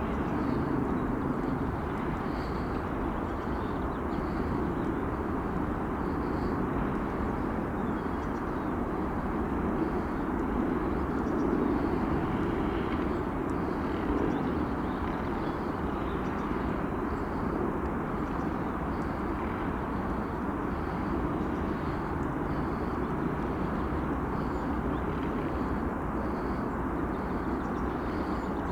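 Freight train rolling past: a steady rumble of wagons on the rails, with a faint regular ticking over it.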